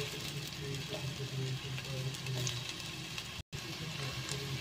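Strips of ginger sizzling in oil in a stainless steel pot: a steady hiss with scattered light clicks. The sound cuts out for an instant about three and a half seconds in.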